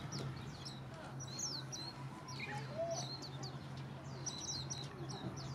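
Small birds chirping over and over, short high falling notes in quick runs, over a steady low hum.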